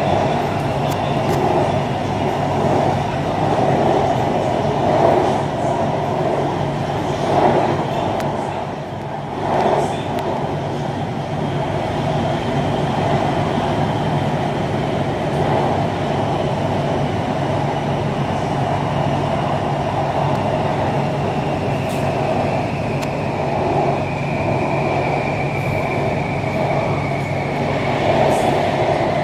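Inside a moving BTS Skytrain electric train carriage: steady running rumble and hum of the train on the track. A faint high electric whine comes and goes and is clearest near the end.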